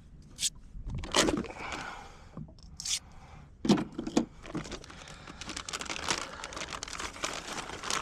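Plastic bag being handled and crinkling: a few sharp rustles and crackles in the first half, then continuous crinkling from about five seconds in.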